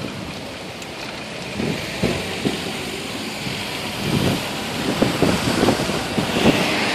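Wind buffeting the microphone of a handheld camera on a moving bicycle: low rumbling gusts over a steady street hiss, growing stronger and more frequent in the second half.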